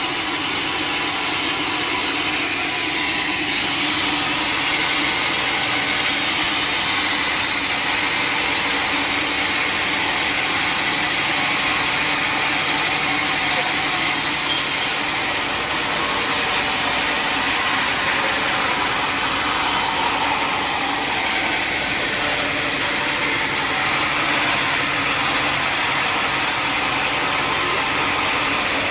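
Sawmill blade cutting steadily through a mahogany log, a continuous loud sawing noise with the mill's engine running under it.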